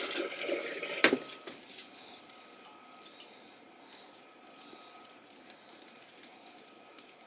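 Kitchen handling sounds: a sharp knock about a second in, then light clicks and rattles of utensils and dishes, over a faint steady high hum.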